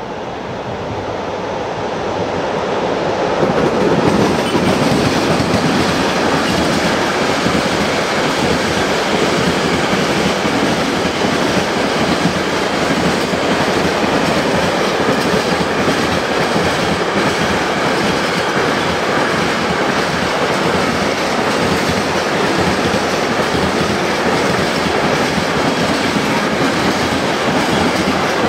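Container freight train rolling past on the rails, wagon after wagon. The noise builds over the first few seconds as the train draws level, then holds steady and loud.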